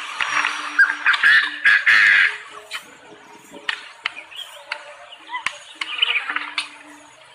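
Birds chirping and squawking, with rustling and sharp clicks, loudest in the first two seconds.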